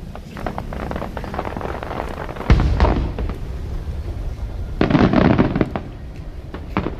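Aerial fireworks display: scattered sharp pops and crackles, a deep boom of a shell bursting about two and a half seconds in, a dense burst of crackling about five seconds in, and a single sharp crack near the end.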